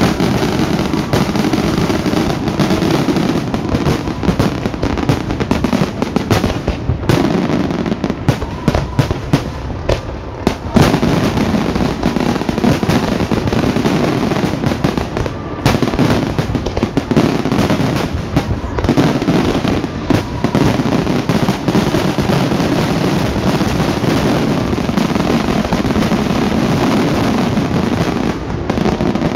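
Fireworks display: a dense, continuous barrage of bursting shells and crackles, with a couple of brief lulls.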